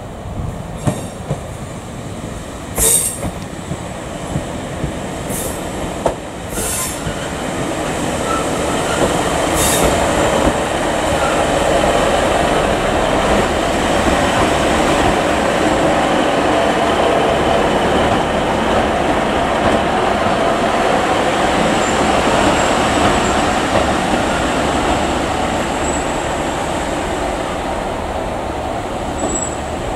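Class 150/2 Sprinter diesel multiple unit running into the station. A steady rumble of engine and wheels grows louder over the first ten seconds and holds, with a few sharp clicks early on and a thin high squeal near the end as it slows.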